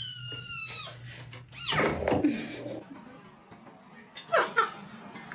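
A cat meowing several times: a high call at the start, a long meow falling in pitch about two seconds in, and two short meows near the end.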